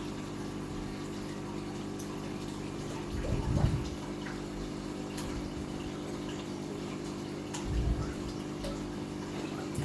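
An aquarium's filter pump humming steadily with water running through it. Two short low thumps come about three and a half and eight seconds in.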